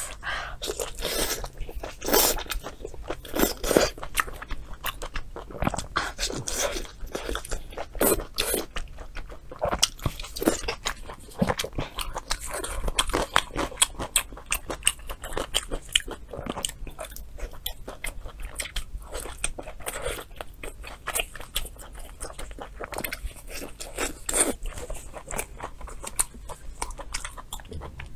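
Close-miked eating: a person biting and chewing food, with a dense, irregular stream of wet smacks and crisp clicking bites.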